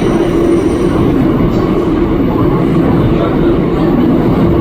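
Seoul Subway Line 9 express train running steadily between stations, heard inside the car: a continuous rumble of wheels on rail with a steady hum.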